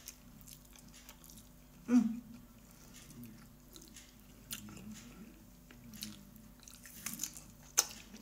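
Close-up eating sounds: chewing and lip smacks as cooked rice is eaten by hand, with a loud thump about two seconds in and a sharp click near the end.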